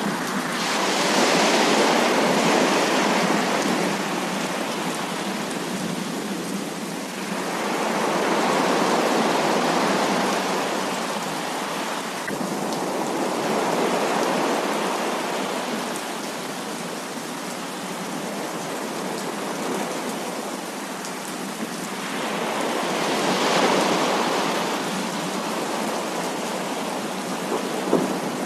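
Heavy rain falling as a dense, steady hiss that swells louder and eases off in slow waves every several seconds.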